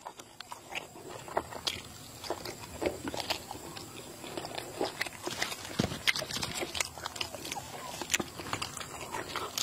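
Close-up wet chewing and mouth smacks of someone eating boiled egg soaked in spicy salad dressing, with irregular small clicks throughout.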